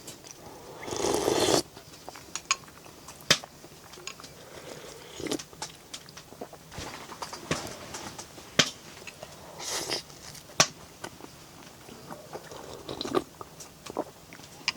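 A person eating: scattered sharp clicks and crunchy bites, with short rustles about a second in and again near ten seconds.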